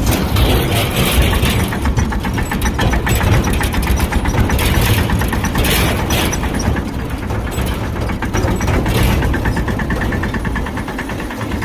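Tractor engine running steadily with an even, rapid chugging.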